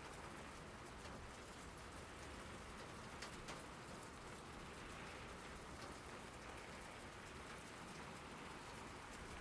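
Steady rain falling on a surface, with a couple of sharper, closer drop hits a little over three seconds in.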